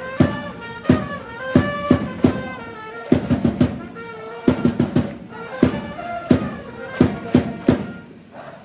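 Japanese baseball cheering-section band, trumpets and drums, playing a player's cheer song: a trumpet melody over steady drum beats. It dips briefly near the end.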